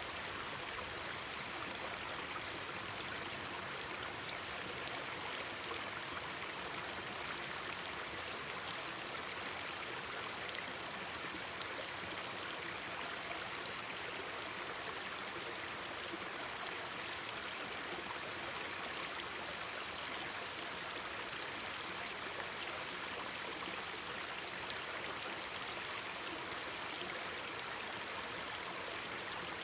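Mountain stream babbling over rocks, a steady, even rush of running water.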